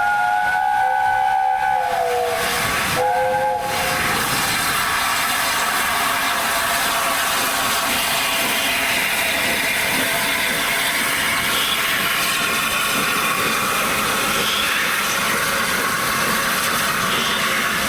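Steam locomotive whistle sounding a chord that sags in pitch as it ends, followed by a short second toot about three seconds in. After that comes the steady noise and hiss of the train on the move.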